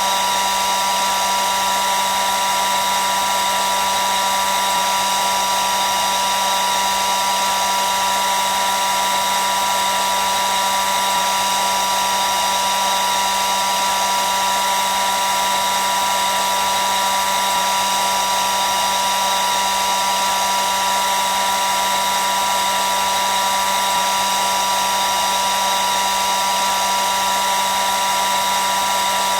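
Hair dryer running continuously at a steady speed: a whirring blast of air with a steady high whine and a low hum beneath it.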